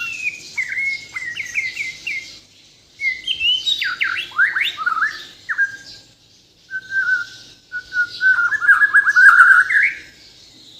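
White-rumped shama (murai batu, Bornean race) singing: three bursts of varied, sharply sliding whistled phrases, the last a rapid trill that rises at its end. This is the full song the uploader calls loaded with mimicked phrases.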